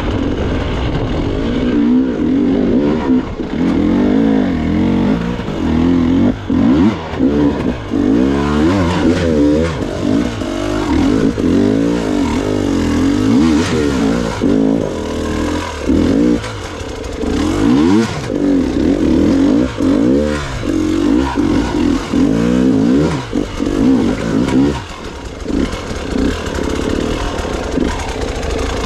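Gas Gas EX 300 two-stroke dirt bike engine revving up and down over and over as the throttle is worked on and off, with short dips between bursts.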